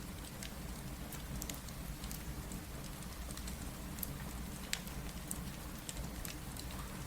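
Steady rain with a low rumble, mixed with a fireplace crackling: scattered small pops and snaps throughout, with one sharper pop a little past the middle.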